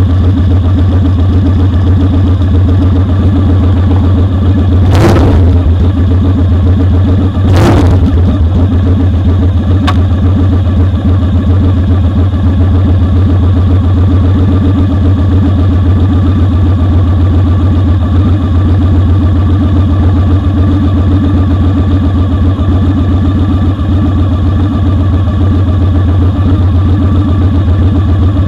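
Motorcycle engine running at a steady speed, heard close up from a foot-peg camera as a loud, even low drone. Two brief rushing noises break in about five and eight seconds in.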